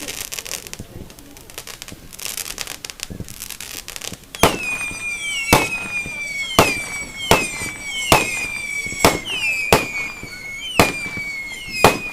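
Fireworks display: crackling at first, then from about four seconds in a rapid run of sharp bangs, roughly one a second, with a high, slightly falling whistle sounding between them.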